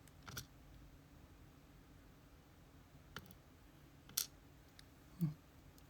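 Three faint, sharp clicks a second or so apart as small metal parts of a gutted Abus C83 padlock are handled, followed by a brief low sound near the end.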